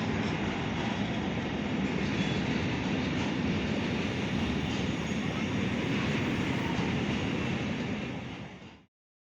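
Container freight train passing at speed: a steady rumble and rattle of wagons running over the rails. The sound fades out quickly and cuts off near the end.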